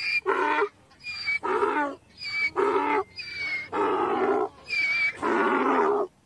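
Donkey braying: a repeated hee-haw, each cycle a short high squeal followed by a longer, lower call, about five cycles in a row that stop abruptly near the end.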